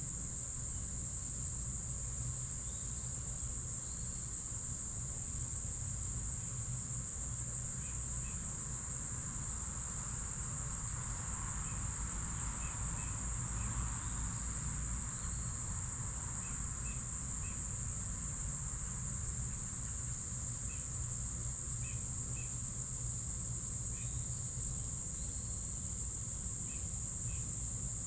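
Insects trilling in one steady, unbroken high-pitched tone, with a few faint short chirps scattered through it.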